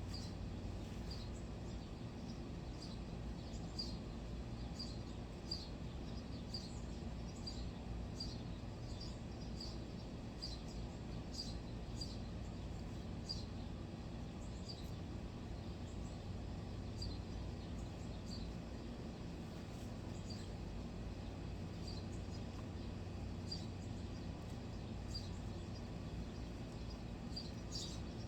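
A small bird calling with short, high chirps, repeated roughly every half second to a second with a few pauses, over a steady low background rumble.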